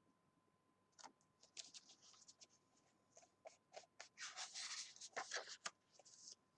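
Faint rustling and scratching of paper: a page of a picture book being turned during a pause in the reading, in short scratchy bursts after about a second.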